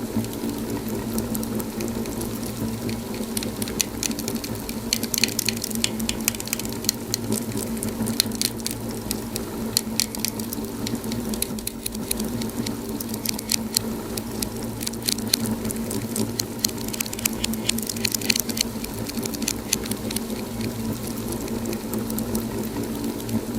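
Wood fire crackling in a fireplace: a steady low rumble with many sharp pops and snaps, busier in stretches.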